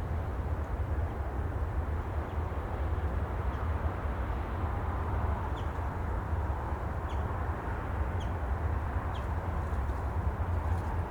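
Steady outdoor sea ambience: an even low rumble with short, high chirps scattered through it, one every second or so and a cluster near the end.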